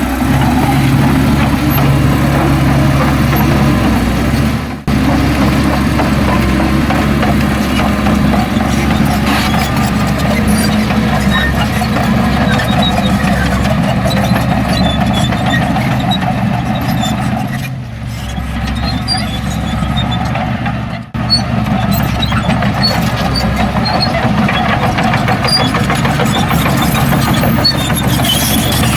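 Heavy diesel engines of earthmoving machinery, a bulldozer and dump truck, running steadily at work: a continuous deep engine drone that twice dips briefly.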